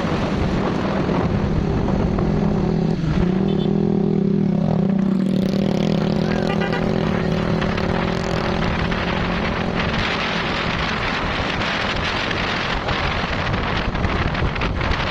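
Motor vehicle engine running at a steady pitch, with wind noise on the microphone growing louder from about ten seconds in.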